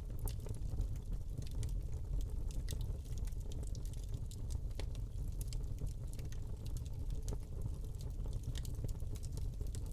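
Wood log fire burning in a fireplace: many small, irregular crackles and snaps over a steady low rumble of the flames.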